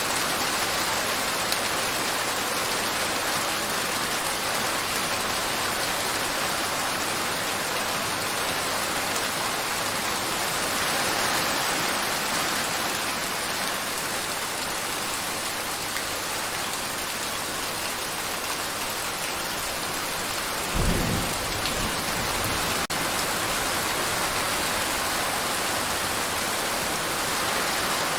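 Steady rain falling, a dense even hiss, with a short low rumble of thunder about three-quarters of the way through.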